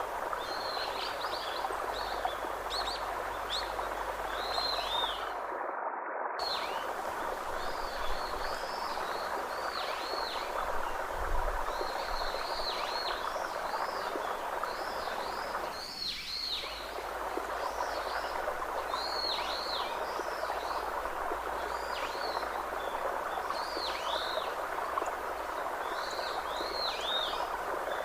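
Steady rush of running water under many short, high chirping bird calls, repeated about once a second.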